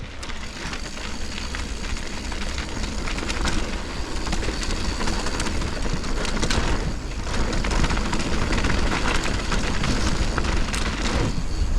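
Mountain bike descending a dirt trail at speed: wind rushing over the camera microphone, tyre noise on dirt and a constant rattle of small clicks from the bike. The noise eases briefly about seven seconds in and again near the end.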